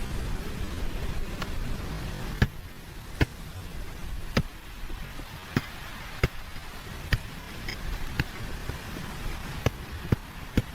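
A series of sharp knocks, about one a second and unevenly spaced, over a steady rushing noise.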